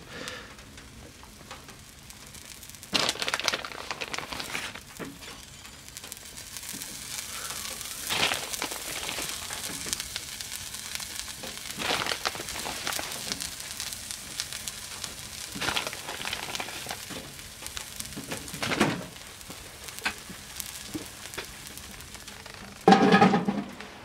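Egg dish cooking in a cast iron Dutch oven on a wood stove, giving a faint, steady sizzle, with a few brief rustles as cheese is sprinkled on. Near the end comes a louder clank as the cast iron lid is set on.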